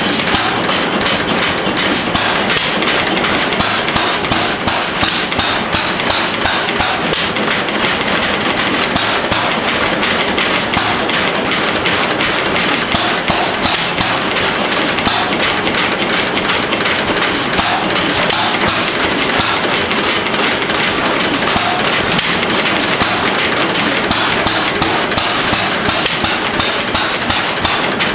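An old stationary engine running with a rapid, even knocking beat that stays steady throughout.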